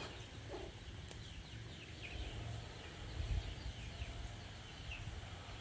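Faint outdoor ambience: scattered short, falling bird chirps over a low rumble.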